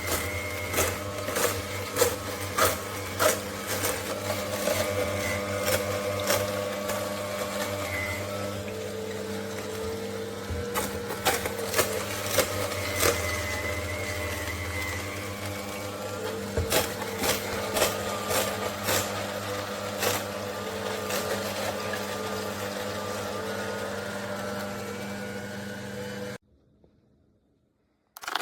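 Cold-press slow juicer running: a steady motor hum with irregular sharp cracks and snaps as produce is crushed. The sound stops suddenly near the end.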